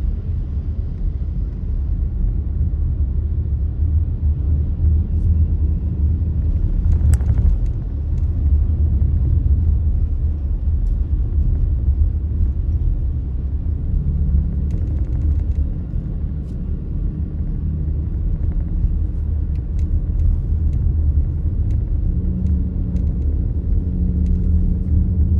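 Steady low rumble of a vehicle driving on city streets: engine and road noise. A brief sharp sound about seven seconds in, and a passing engine hum now and then.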